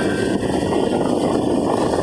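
Speedboat under way: a loud, steady rushing noise of the motor and the water against the hull.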